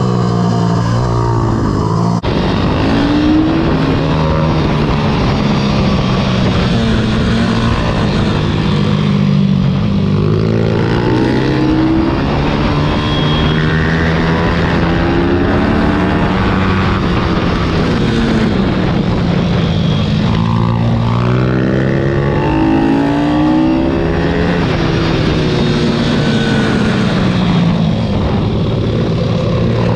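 Pit bike engine revving hard, its pitch rising and falling again and again as it accelerates and backs off, with a second engine's note crossing it at times.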